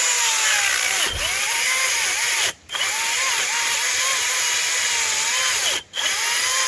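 Echo DCS-2500T 56-volt battery chainsaw cutting through a tree trunk, its motor whine dipping and recovering under load. It cuts out briefly twice as the bar starts to jam in the cut.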